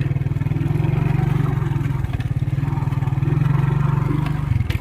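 Motorcycle engine running steadily under throttle while riding, with brief dips in engine sound about two seconds in and near the end.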